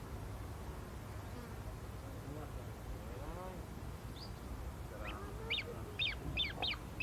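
A bird calling in a quick series of short, sharply falling notes, about three a second, starting about five seconds in, over a steady low rumble.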